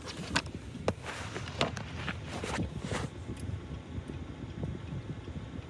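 Steady low rumble of a car heard from inside the cabin, with a handful of sharp clicks or taps in the first three seconds.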